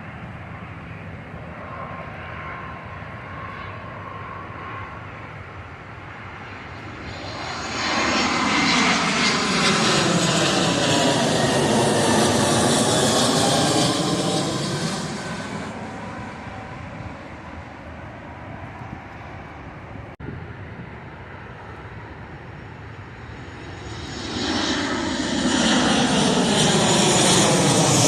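Airplanes flying low overhead. One swells to a loud rushing roar about a quarter of the way in, holds for several seconds and fades. A second begins passing near the end.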